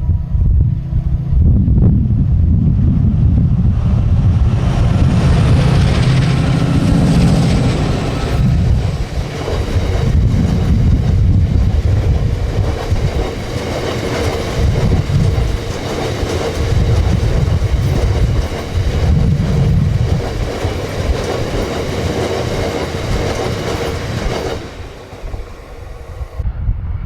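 A train passing close by: a loud low engine rumble in the first ten seconds or so, then the wagons rolling past with a steady thin squeal from the wheels. The sound cuts off abruptly just before the end.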